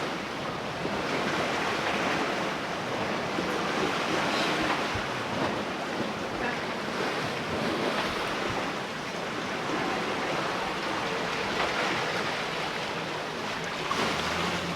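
Steady wash of the sea and wind on a sailboat sailing offshore in 1.5–2 m seas with a 16–17 knot beam wind, making about 7 to 8 knots.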